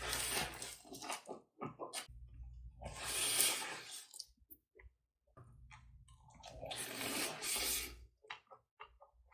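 Close-miked eating sounds: chewing in three swells, with small wet clicks between them.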